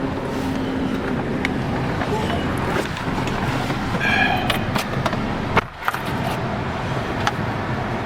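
Steady road and engine rumble of a car while driving, with a short high tone about four seconds in and a brief dip and click near six seconds.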